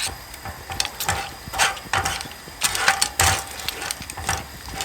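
Cooking utensil clinking and scraping in a pan, irregular knocks a few times a second.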